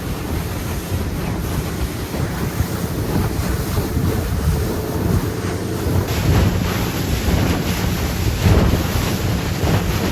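Wind buffeting the microphone with waves washing around a small fishing boat in rough, choppy water, a steady, dense rush.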